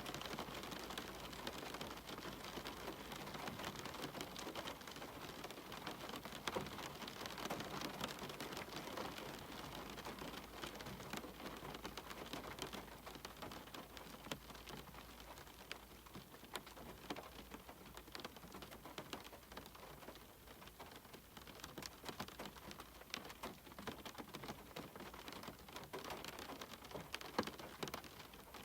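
Steady rain falling, with many separate drops tapping sharply through the even hiss; the rain eases a little in the middle and picks up again near the end.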